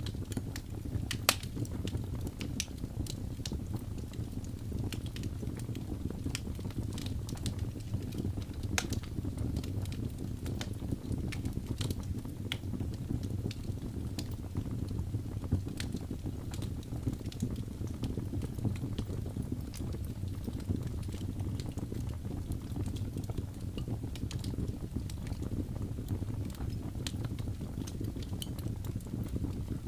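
Wood fire burning with a steady low rumble of flames and frequent sharp crackles and pops, the loudest pop about a second in.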